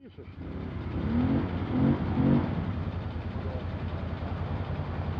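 Off-road vehicle's engine revving up in a few short rising pushes, then running steadily.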